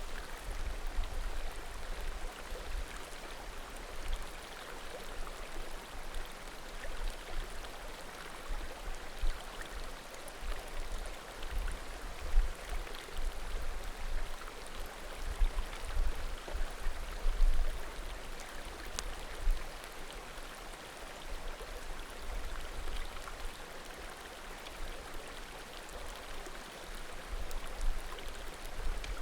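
Small mountain creek flowing and murmuring steadily, with an occasional faint pop of burning firewood, one sharp pop about two-thirds of the way through.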